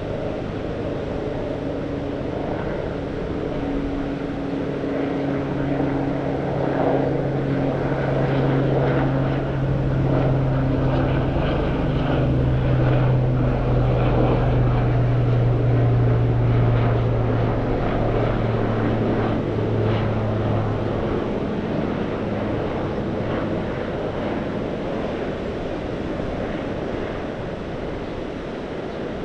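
A motor's drone passes by over the wash of the sea, swelling to a peak midway and then fading away.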